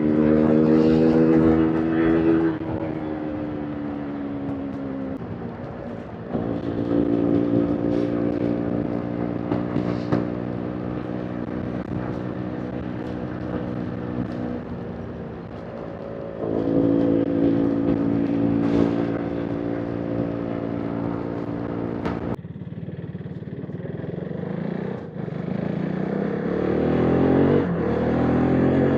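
KTM RC 390's single-cylinder engine and exhaust under hard riding, the throttle opening and easing several times so the note rises and falls. The sound drops sharply as the throttle closes about three quarters of the way in, then the revs climb steadily again near the end.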